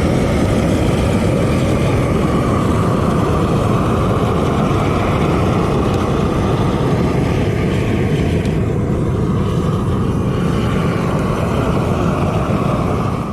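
Propane weed burner running with a loud, steady roar as its flame is held on a pile of kindling, until it cuts off suddenly at the very end.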